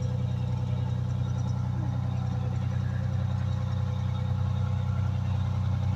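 A 1989 Pierce Dash fire truck's Detroit Diesel engine idling steadily, with a low, even pulsing beat.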